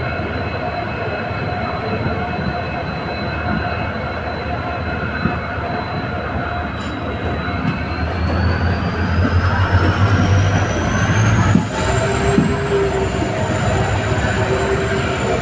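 Diesel passenger train running, a steady rumble with a thin high whine that rises in pitch from about halfway through while a low hum swells, then eases just before the end.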